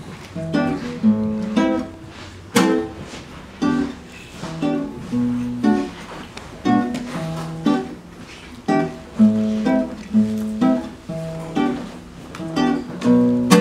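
Acoustic guitar playing a song's instrumental introduction: plucked and strummed chords in a steady, repeating rhythm.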